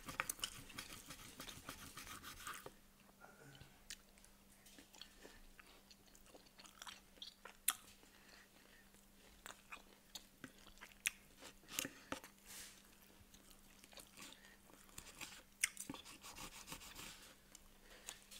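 Faint close-miked chewing of steak, with scattered short clicks of a steel knife and fork cutting the meat on a wooden board.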